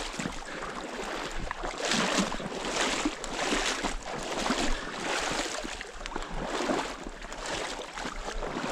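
Water sloshing and swishing as a hunter wades through a pond, in uneven swishes roughly once a second.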